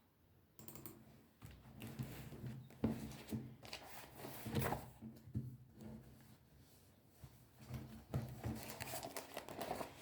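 Irregular rustling and crinkling, as of packaging or items being handled, with scattered light knocks.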